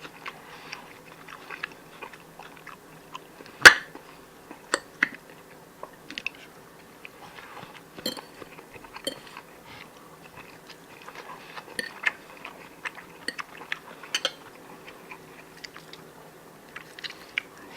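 A person eating close to the microphone: chewing and biting, with scattered small clicks and crunches and one sharp click a little under four seconds in. A faint steady hum sits underneath.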